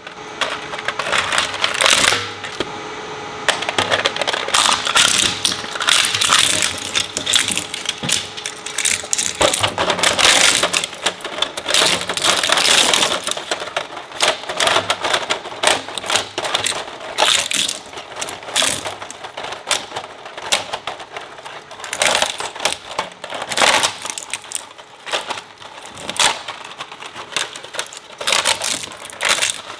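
Industrial shredder chewing up plastic objects: a dense, irregular clatter of cracks and snaps that thins into separate bursts in the second half, over a faint steady hum.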